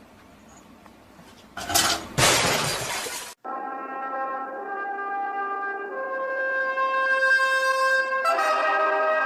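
Brief room tone, then a loud crash lasting a little over a second, like something breaking. After it comes brass music with long held notes that shift pitch twice.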